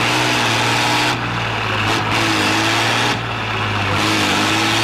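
Large diesel truck engine running hard off road, a steady low drone with broad mechanical noise, briefly easing off about a second in and again about three seconds in.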